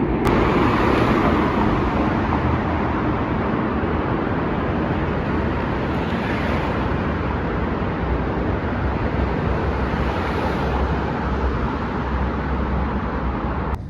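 Steady road traffic of cars passing close by, a continuous rush of tyre and engine noise that swells three times as cars go past.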